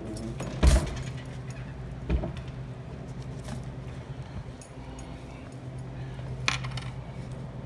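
Metal parts of a refrigerated display case being handled: a few sudden knocks and clinks, the loudest about a second in. Under them runs a steady low hum of running equipment.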